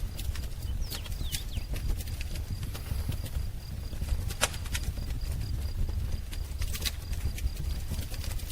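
Wood fire crackling, with sharp irregular pops and snaps over a low steady rumble. A couple of faint short bird chirps about a second in.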